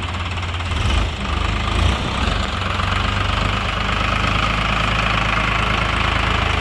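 Tractor diesel engine running steadily, with brief louder surges about one and two seconds in.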